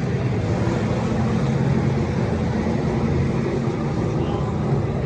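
NASCAR Truck Series race trucks' V8 engines running together in a steady, even drone.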